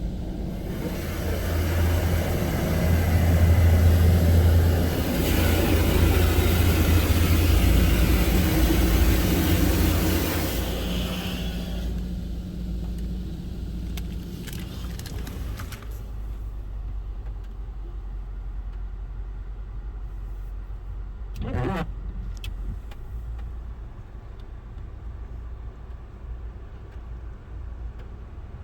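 Belanger FreeStyler automatic car wash running: a loud rushing noise over a deep hum for about the first eleven seconds, then dying down to a quieter hum with a few clicks and a brief pitch sweep about 21 seconds in.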